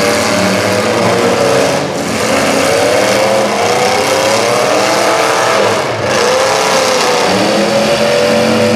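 Several demolition derby cars' engines revving, their pitch rising and falling over one another, with loud engine noise throughout.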